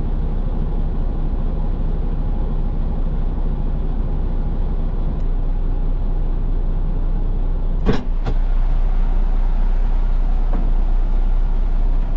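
Heavy roll-off truck's diesel engine idling with a steady low rumble, standing on the scale while it is weighed. Two sharp clicks come about eight seconds in, and the rumble is a little louder after them.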